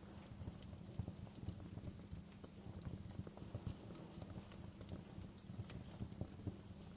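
Wood fire crackling in a fireplace: a steady low rumble of the burning logs with irregular sharp pops and snaps.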